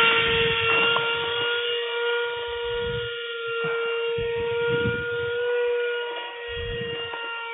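70mm electric ducted fan of an RC foam jet, powered by a 4-cell lipo, running at speed with a steady high whine that slowly fades as the jet moves away. Low rumbles of wind on the microphone come and go underneath.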